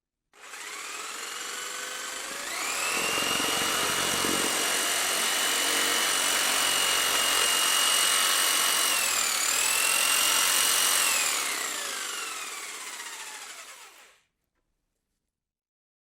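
An electric power tool's motor spinning up to a high, steady whine. It dips briefly in pitch and recovers about nine seconds in, then winds down and stops.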